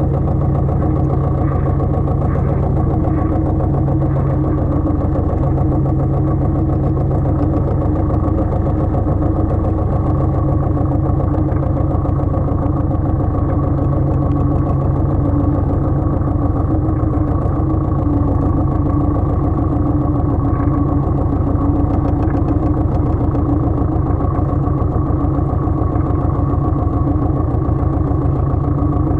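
Pasquali 980 EX compact tractor's engine running steadily at an even speed.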